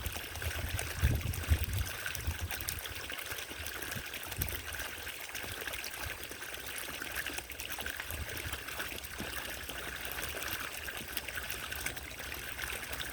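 Small solar-powered garden fountain's water trickling and splashing steadily, with a few low bumps in the first couple of seconds.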